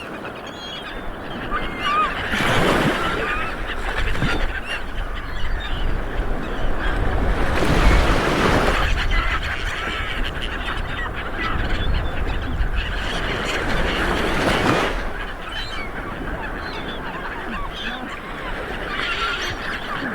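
Small waves breaking and washing up a beach, a surge about every six seconds, with birds calling overhead in short, repeated honking calls.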